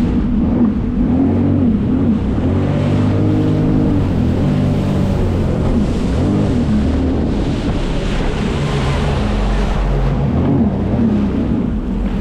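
Jet ski engine running under way, its pitch rising and falling several times as the throttle is worked, with wind buffeting the microphone and water rushing past.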